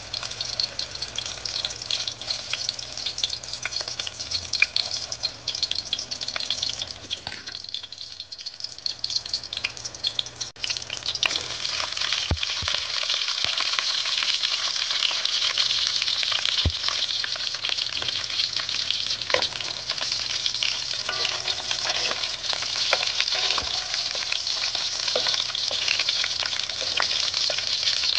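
Onion pieces frying in hot coconut oil in a metal pot, a dense crackling sizzle. Around eight seconds in it thins out briefly, then comes back louder and denser with chopped bell peppers frying alongside.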